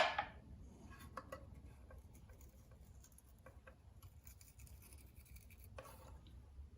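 A sharp knock right at the start, then faint scraping and scattered small clicks as an outboard motor's exhaust baffle is worked free. Its stuck gasket tears away in the process.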